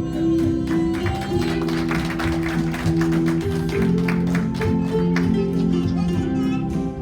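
Live band music in an instrumental interlude between sung verses: sustained chords with guitar strumming through the middle.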